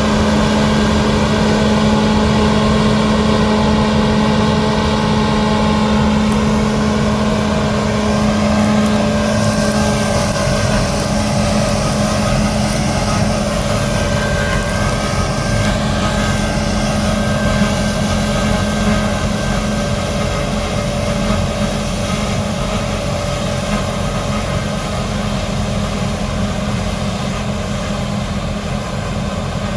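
Large diesel engines of harvest machinery running steadily, combines and tractors at work in a wheat field. A strong low hum fades out about ten seconds in, and the overall sound eases slightly towards the end.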